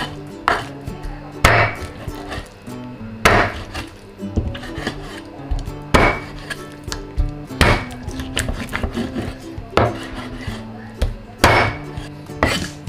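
Steel Chinese cleaver chopping bone-in chicken legs into pieces on a wooden cutting board: about eight sharp chops, irregularly spaced one to two seconds apart, with lighter knocks between them.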